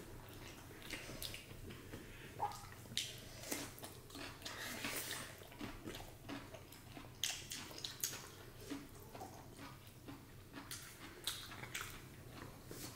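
Close-up eating sounds: chewing and mouth smacks, heard as a string of short, irregular clicks with small wet noises between them.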